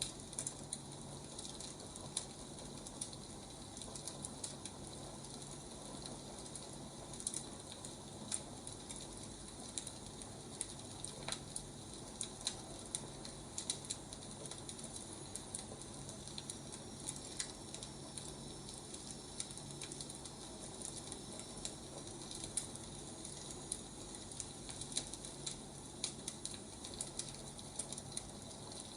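Burning firewood crackling, with irregular sharp pops and snaps over a steady soft hiss.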